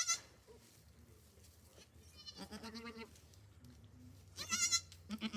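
Newborn goat kids bleating: a short, high, quavering bleat at the start and another about four and a half seconds in, with a lower, longer goat call between them about two and a half seconds in.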